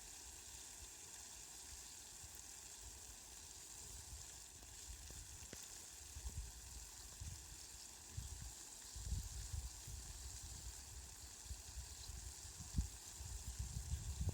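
Steady rain falling, a faint even hiss. Irregular low rumbles come in from about halfway through and grow more frequent toward the end.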